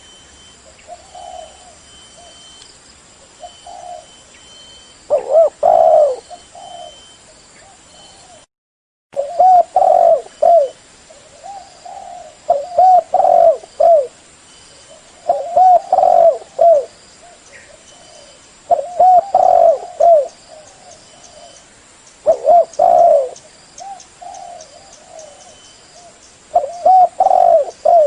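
Spotted dove (derkuku) cooing loudly: a multi-note coo phrase repeated about every three to four seconds. The sound drops out completely for about half a second around eight and a half seconds in. Faint steady high-pitched tones run underneath.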